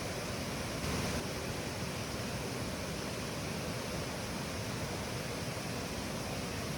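Steady rush of flowing river water, a constant even hiss with a slight swell about a second in.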